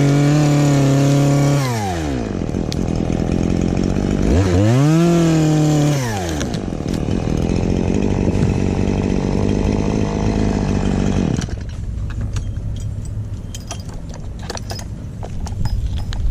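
Chainsaw engine held at high speed, dropping back, revved up again for about two seconds and dropping back, then running more steadily until it stops about eleven seconds in. Scattered clicks and knocks follow.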